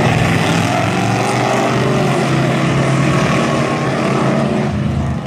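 A field of dirt-track race trucks at the start of a heat race, many engines running hard together, their pitches rising and falling as they accelerate.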